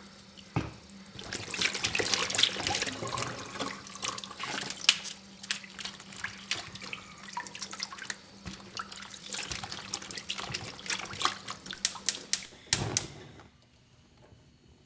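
Water running from a kitchen tap into a sink and splashing, with small knocks and clinks of things being handled under it, starting about a second in and cutting off suddenly near the end.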